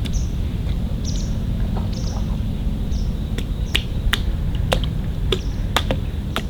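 A small bird chirping, short high calls about twice a second, over a steady low outdoor rumble of wind. About halfway through the chirps give way to a scatter of sharp clicks and taps.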